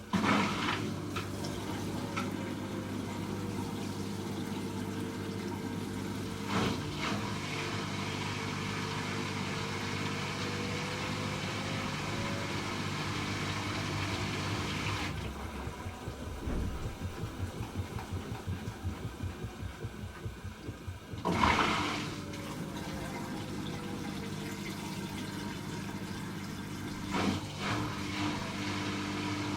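Hoover H-Wash 300 Plus washing machine in its rinse cycle: water rushing in over a steady motor hum, with a whine that falls and then rises in pitch. About halfway through the rush stops and the load sloshes in a quick rhythm for several seconds. Then water rushes in again with a loud surge.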